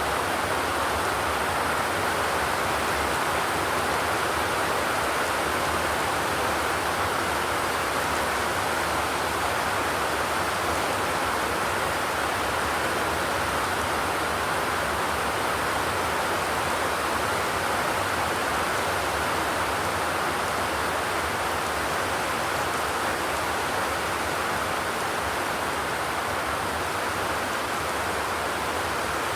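Steady rain on a zinc sheet roof, an even, unbroken hiss with no thunder.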